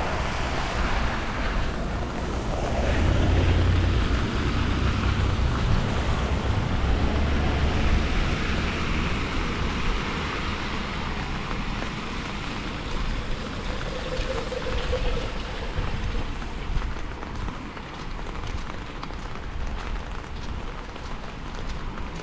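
Rain and wet-street noise with traffic passing on the wet road; a heavier low rumble of passing vehicles builds about three seconds in and fades after about eight seconds.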